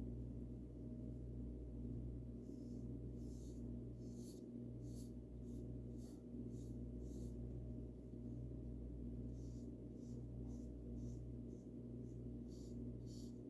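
Paintbrush strokes on a wooden bird house: short, soft bristle swishes in runs of several strokes, with a pause of a couple of seconds midway. A steady low hum runs underneath.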